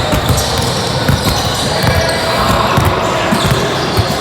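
Sounds of a youth basketball game in a gym: a basketball bouncing on the court, with many short thumps and knocks, over a steady wash of background voices.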